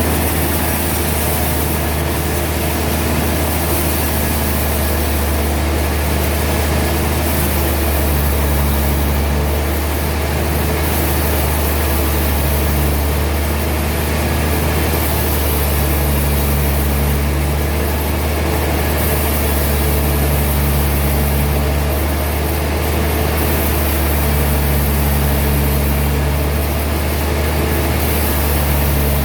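Heavy sawmill machinery running steadily: a constant deep hum, with a higher tone that comes and goes every few seconds.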